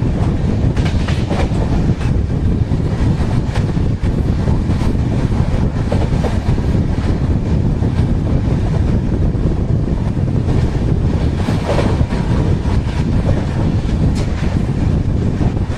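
Express train running at speed, heard from an open door of a passenger coach: a steady low rumble of wheels on the track with irregular clicking and clattering.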